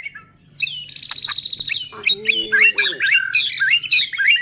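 White-rumped shama singing a fast, varied run of short whistled notes, chirps and rattles after a brief pause, with a lower arched call about two seconds in.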